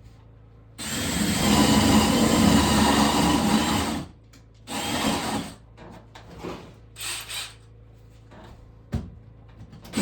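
A handheld power tool, likely a drill, running for about three seconds, then a shorter burst about a second later, followed by a few brief weak spurts and a single click.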